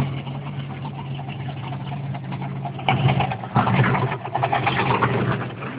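A large monster truck engine idling steadily, with louder stretches of mixed noise about three seconds in and again just after.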